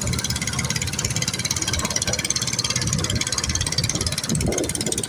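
Boat engine running steadily, with a high hiss over it.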